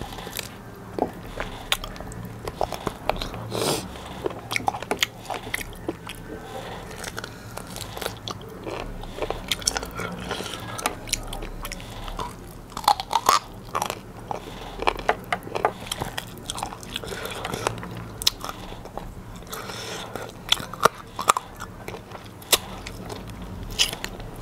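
Close-miked biting and chewing as a person gnaws a cooked chicken leg on the bone, with many irregular sharp crunches and clicks.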